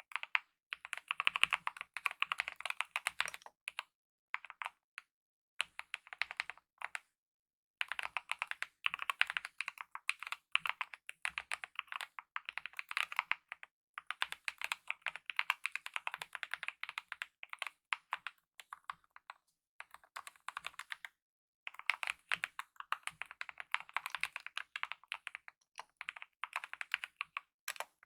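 Typing on a mechanical keyboard with lubed optical linear red switches and DSA-profile keycaps: rapid runs of key presses in bursts of a few seconds, with short pauses between them.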